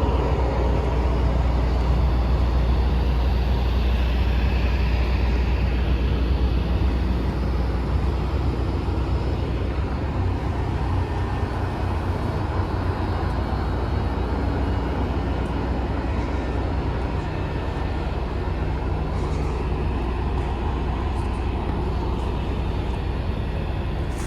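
Siemens Charger (ALC-42) diesel locomotive idling at a standstill: a steady low rumble.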